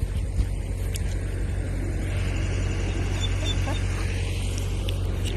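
A steady low mechanical hum, like a motor or engine running, with a few faint clicks.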